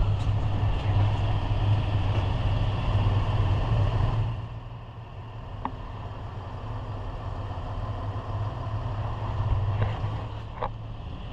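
Car engine idling with a steady low hum, which drops noticeably in level about four seconds in.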